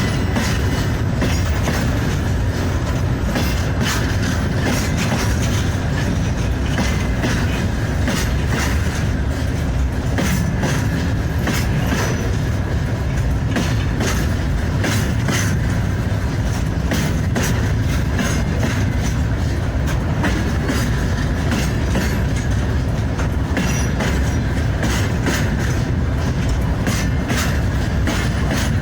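Train hauled by an old mining locomotive running along the track: a steady rumble with frequent clicks of wheels over the rails.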